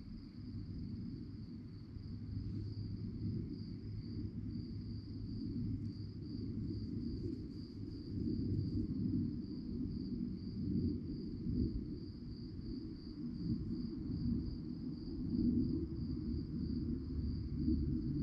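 Crickets chirping in a steady, even pulse, about two to three chirps a second, over a louder low rumble.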